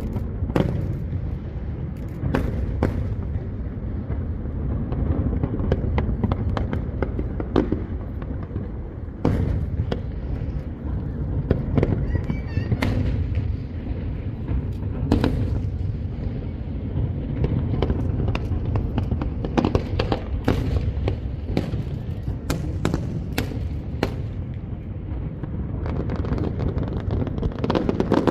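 Fireworks display: many sharp bangs of shells bursting at irregular intervals, over a continuous low rumble.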